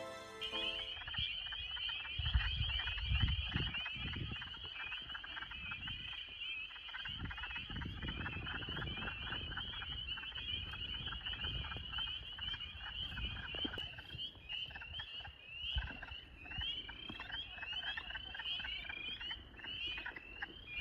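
Chorus of spring peepers: many high, short rising peeps overlapping at first, thinning to distinct separate peeps in the second half, over a low rumble.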